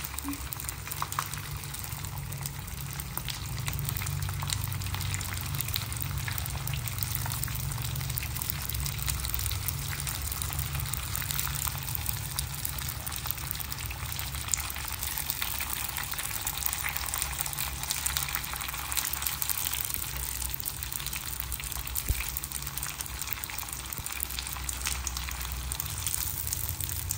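Soy-based vegetarian mock dried sole shallow-frying in hot oil over medium heat: a steady sizzle with dense crackling, and a low hum underneath.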